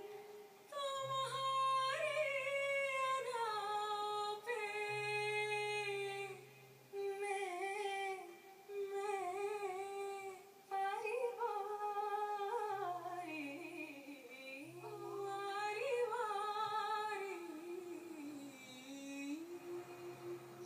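A woman singing a Hindi melody solo, without accompaniment, in long held notes with wavering ornamental turns, in several phrases broken by short breaths.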